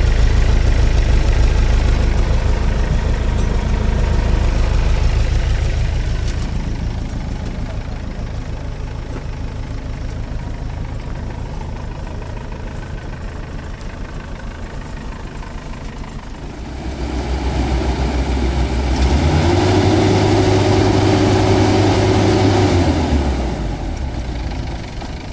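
The freshly rebuilt engine of a Bimo NDR-102L combine harvester running. It eases to a quieter idle after about six seconds, is revved up from about seventeen seconds to a steady higher speed, and falls back to idle near the end. Said to run smooth.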